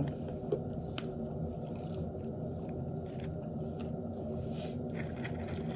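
Faint eating sounds, chewing with a few small clicks, over a steady low hum.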